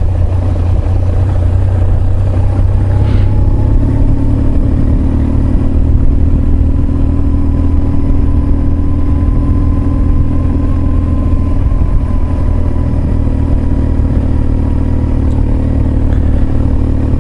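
Motorcycle engine running steadily under way, a loud even drone whose pitch steps up slightly about four seconds in and then holds.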